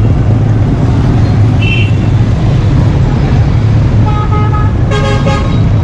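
Road traffic with a steady, loud low engine rumble, and vehicle horns honking twice in quick succession near the end.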